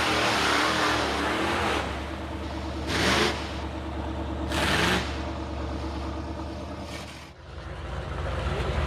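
Ford 460 V8 on open headers revving hard in the mud, then dropping back, with two short throttle blips about three and five seconds in. Near the end the sound dips briefly and a steadier low engine rumble takes over.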